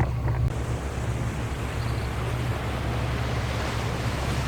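Steady low rumble of a boat's engine passing along the canal, with wind rushing on the microphone.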